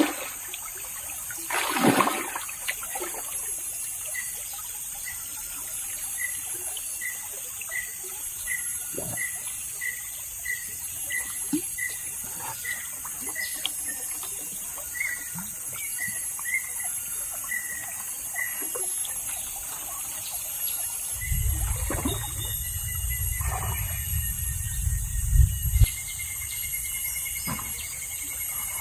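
River water trickling and splashing, with a steady high insect-like hiss behind it. A short high call repeats over a dozen times, a little more than once a second, in the first half, and a loud low rumble runs for several seconds past the middle.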